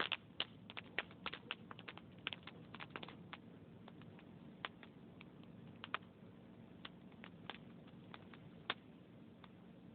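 Log fire crackling in a fireplace: sharp pops and snaps, many close together over the first few seconds, then only a few scattered ones, over a low steady hiss of the burning wood.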